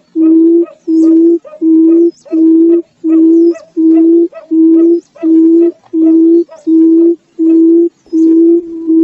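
Barred buttonquail giving its low, hollow hooting call: a long even series of short notes of one pitch, about one and a half a second. Near the end the notes run closer together with less silence between them.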